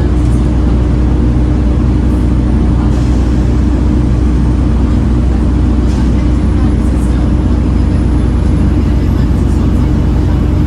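Volvo B7TL bus engine running steadily on the move: a constant low drone with a steady whine held on one pitch.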